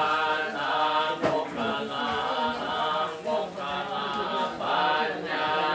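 Buddhist chanting in Pali by a group of voices in unison, held, drawn-out phrases that rise and fall in pitch.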